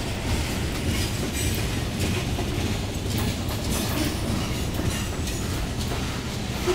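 Union Pacific freight train of covered hopper cars rolling past: a steady heavy rumble of steel wheels on rail, with irregular clacks as the wheels cross the rail joints.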